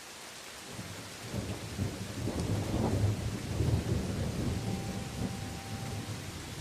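A roll of thunder over steady rain falling on forest leaves. The low rumble builds about a second in, is loudest in the middle and dies away near the end.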